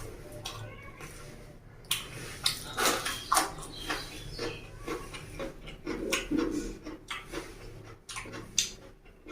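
A person eating close to the microphone: chewing and wet mouth sounds with scattered sharp clicks.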